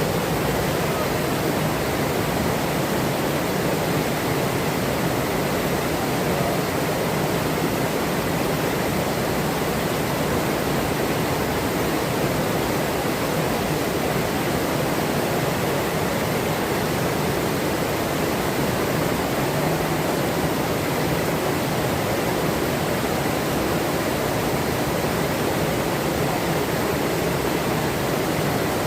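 A forest river, its rushing water running steadily without letup.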